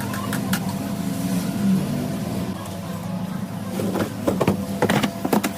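Steady low machine hum with a cluster of sharp metallic clicks and knocks about a second and a half before the end, and a few more just after the start.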